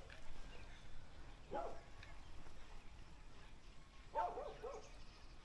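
A dog barking: one bark about a second and a half in, then a quick run of three or four barks near the end.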